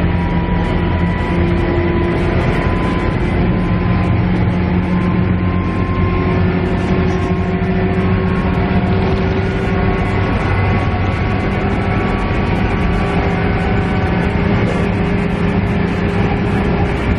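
Diesel engine of a KiHa E130 railcar heard from inside the cabin, running steadily over wheel and rail rumble, its drone slowly rising in pitch.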